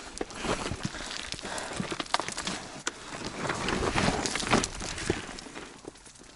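Irregular steps knocking and scraping on loose rocks.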